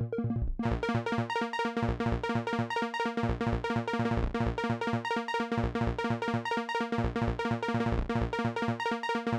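Electronic music from a software synthesizer in Ableton Live 10 playing a fast, even run of short, plucky pitched notes, with no drums. The pattern starts about half a second in, just after the kick drums cut out.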